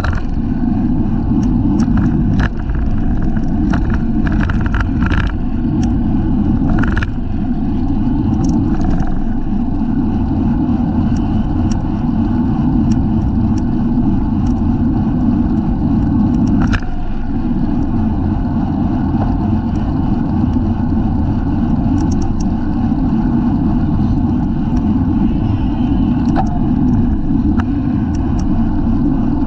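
Steady rush of wind over a bicycle-mounted camera's microphone while riding at race speed, mixed with road noise from the tyres. Brief clicks and rattles come through now and then, several in the first seven seconds and one near the middle.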